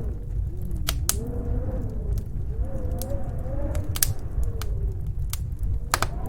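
Snowstorm wind howling in a wavering tone that rises and falls, over a low steady rumble. Sharp pops and crackles of a wood fire come through at irregular moments, the loudest about a second in, near the middle and near the end.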